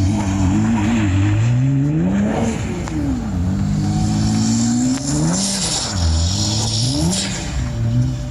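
A car engine revving hard, its pitch climbing and dropping again and again, with sharp peaks about two and a half seconds in and again near the end.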